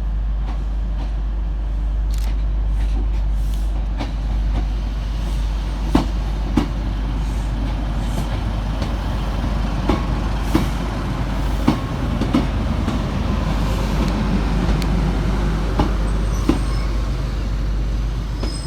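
Northern Class 156 diesel multiple unit coming in slowly to stop at the buffers, its underfloor diesel engines running with a steady rumble. Sharp clicks and knocks from the wheels over the track come every second or two, with brief high squeals in the second half.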